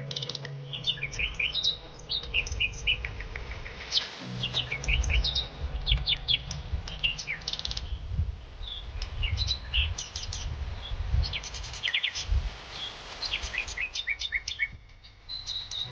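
Many small birds chirping and singing at once, with quick overlapping chirps and trills throughout, over a low uneven rumble.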